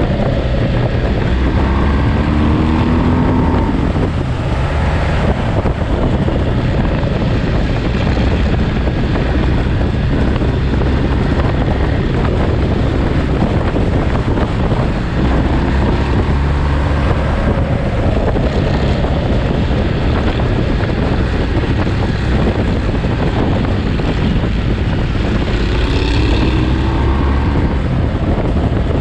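Ducati Monster's twin-cylinder engine running while riding downhill, with wind rushing over the microphone. The engine note rises and falls a few times, near the start, midway and near the end.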